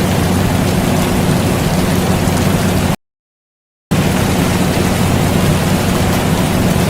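Air conditioner running with a steady low hum under a continuous rain hiss. The whole sound cuts out completely for about a second near the middle, then comes back unchanged.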